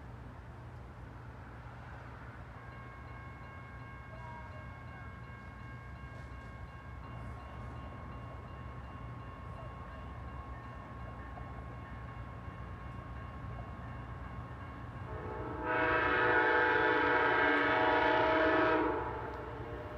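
Approaching Amtrak diesel locomotive sounding its multi-tone air horn: faint at first a few seconds in, then one long loud blast of about three seconds near the end, over the growing rumble of the oncoming train.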